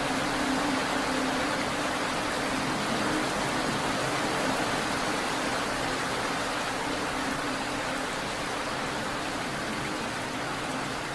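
Steady rain falling, an even hiss of many drops without distinct hits, with a steady low hum underneath.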